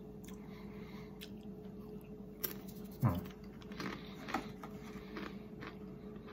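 Close-up mouth sounds of chewing crisp potato chips: scattered soft crunches and clicks, one stronger crunch about three seconds in, over a steady low hum.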